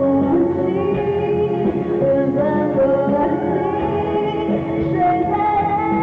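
Live pop ballad performance: a band with guitar and strings playing, with singing over it.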